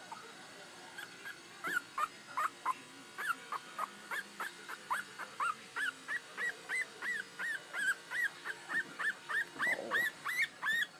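Puppy whimpering and yelping over and over, short high-pitched cries about three or four a second that grow louder and more regular toward the end.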